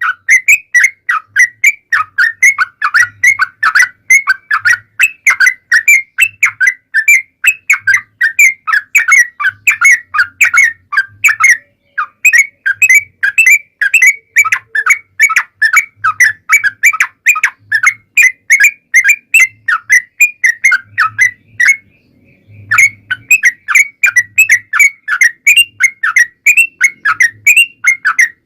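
Yellow-vented bulbul (trucuk) singing a long, fast run of chirping whistled notes, several a second, broken by two brief pauses. It is a lure song recording meant to make other bulbuls answer.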